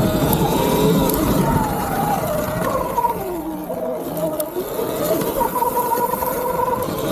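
Electric dirt bike's motor whining as the rider works the throttle: the whine drops in pitch a few seconds in, then climbs again. A steady low rumble of wind and ground noise runs under it.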